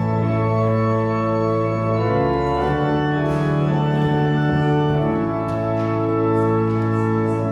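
Church organ playing slow, sustained chords, with the harmony changing about two seconds in.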